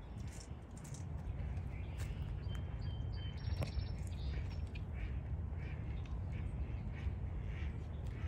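Outdoor ambience: a steady low rumble with faint, short bird calls scattered through it and a brief high note just past the middle.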